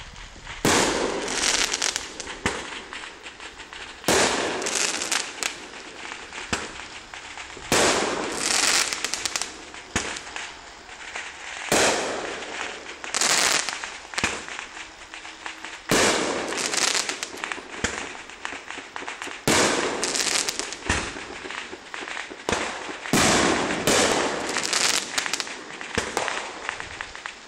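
Fireworks going off again and again, a sharp bang every two to four seconds, each trailing off into crackling.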